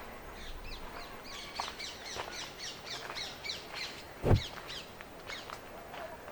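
Birds chirping: a quick run of short, high notes repeated several times a second, with one loud thud about four seconds in.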